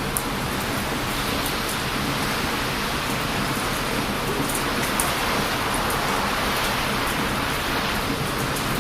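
Constant rushing noise of heavy surf breaking on a beach, swelling slightly about halfway through, with a wood bonfire crackling in scattered sharp pops over it.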